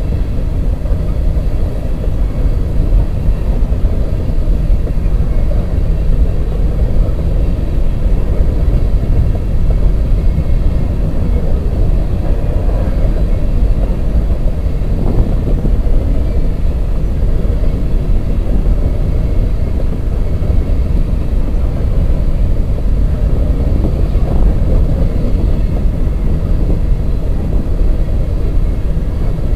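Empty coal hopper cars of a passing CSX freight train rolling by close at hand: a loud, steady noise of steel wheels running on the rails, unbroken throughout.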